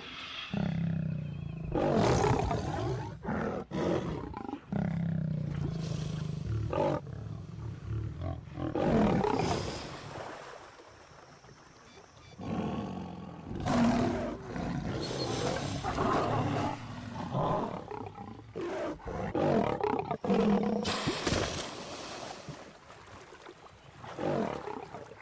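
Lions roaring in several loud bouts, with a quieter lull about ten seconds in.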